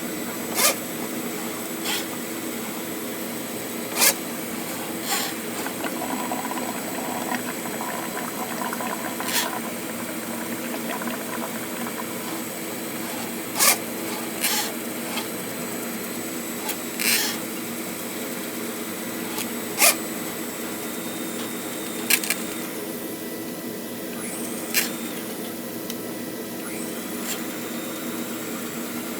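Electric Flexi-Rodder drain-cleaning machine running with a steady motor hum while its spinning cable works inside the drain pipe, with about a dozen sharp clicks and knocks scattered through it.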